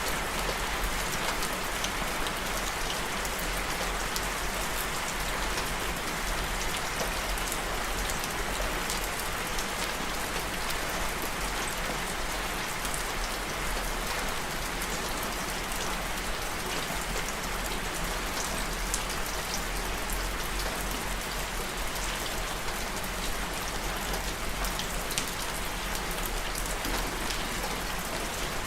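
Steady, even rain falling on a surface, with many small droplet ticks.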